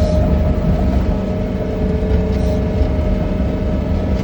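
John Deere 317 skid steer running with its snowblower attachment, heard from inside the cab: a steady, loud engine rumble with a constant whine over it.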